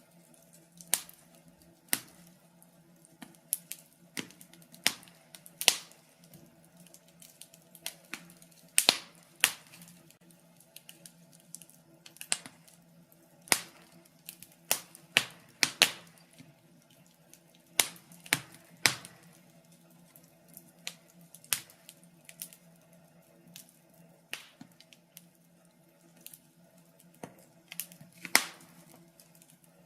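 Wood fire in a fireplace crackling, with sharp, irregular pops about once or twice a second over a faint steady low hum.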